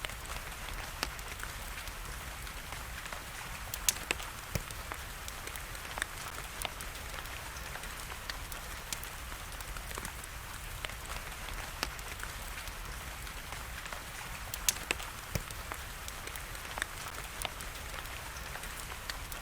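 Wood fire crackling, with scattered sharp pops (the loudest about four seconds in and near fifteen seconds), over a steady hiss of rain.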